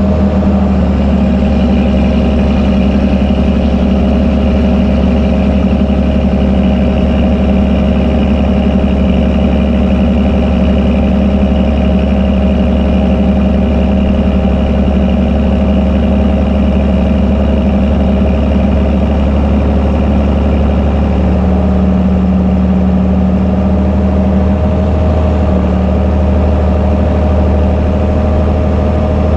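Fendt Favorit 926 Vario tractor's diesel engine running steadily through an open exhaust pipe while it pushes and packs haylage on a silage clamp. About two-thirds of the way through, the engine note shifts a little lower.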